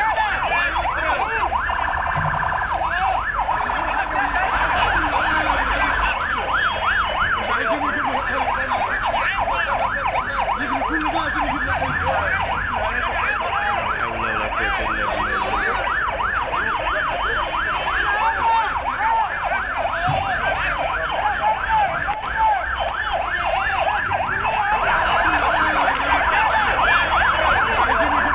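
Several emergency-vehicle sirens sounding at once, each sweeping rapidly up and down in pitch a few times a second, overlapping one another.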